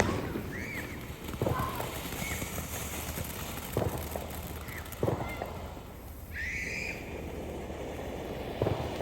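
Consumer fireworks going off: several separate sharp bangs a second or more apart over a steady hiss.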